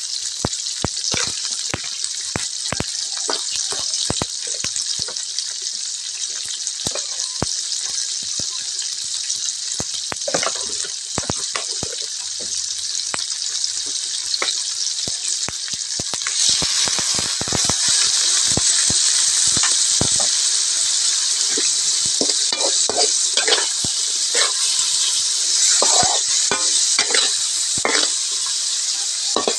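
Whole shrimp sizzling as they fry in a wok, with a metal spatula clicking and scraping against the pan. The sizzle grows louder about halfway through.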